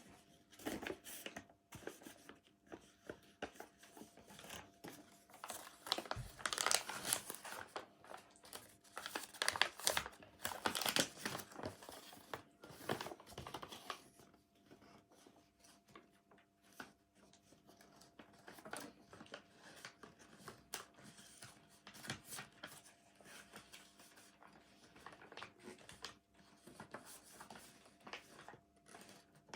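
Paper rustling and crinkling as a sheet of paper is handled, in irregular bursts that are busiest in the first half and thin out later.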